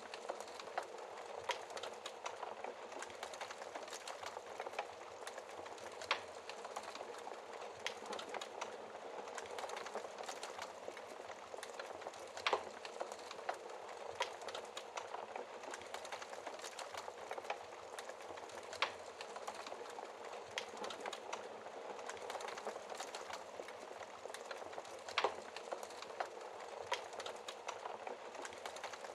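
Wood fire crackling in a fireplace: a steady hiss of small crackles with a sharper pop about every six seconds.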